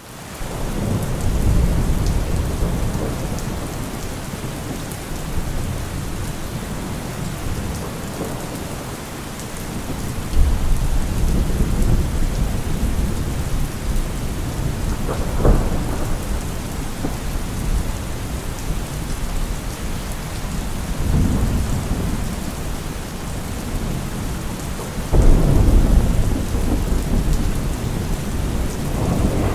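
Heavy rain falling steadily, with rolls of thunder rumbling every few seconds. A sharper thunder crack comes about fifteen seconds in, and the loudest rumble about twenty-five seconds in.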